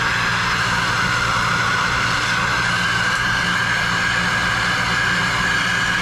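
Plumbing soldering torch burning with a steady, loud hiss while a copper fitting is soldered.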